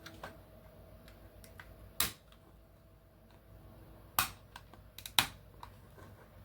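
Sharp clicks and taps of hard plastic being handled: 3D-printed mask pieces and a 3D pen. A few scattered clicks, the loudest pair near the end, over a faint steady hum in the first half.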